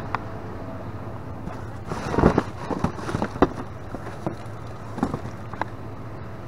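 Rummaging through trash in a dumpster: scattered knocks, crackles and scrapes of items being moved, busiest about two seconds in, over a steady low hum.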